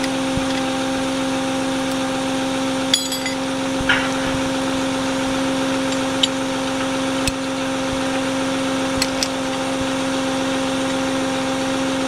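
A vehicle engine idling steadily with a constant hum, with a few light clicks and knocks scattered through it.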